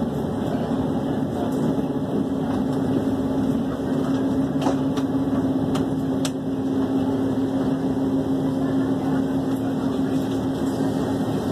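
Passenger train heard from inside the carriage: a steady hum over running noise as the train comes to a stop, with a few light clicks midway.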